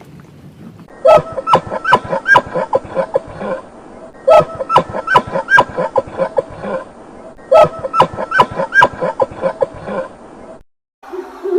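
A bird, most likely a type of fowl, calling in three bouts of rapid repeated calls about three seconds apart. The calls stop abruptly near the end.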